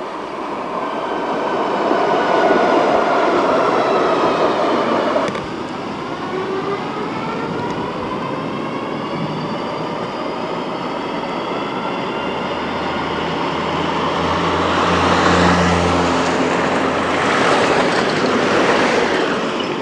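Electric tram running on street track: the whine of its traction motors and gearing rises in pitch as it gathers speed, over the rumble of wheels on rail. The sound breaks off abruptly about five seconds in, then the whine climbs again, and the rail noise grows louder near the end.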